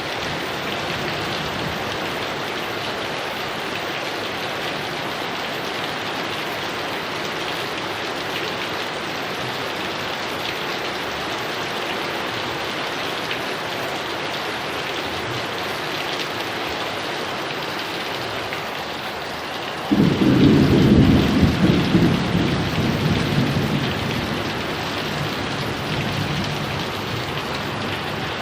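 Steady heavy rain, with a loud thunderclap breaking in suddenly about two-thirds of the way through and rumbling away over several seconds.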